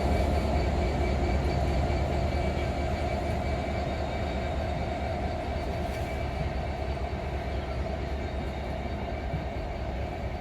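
Empty freight wagons rolling past over rail joints, a steady rumble of wheels on rail that slowly gets quieter.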